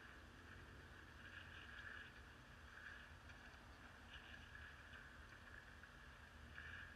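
Near silence: a faint low hum and hiss, with a faint sound that swells and fades every second or so.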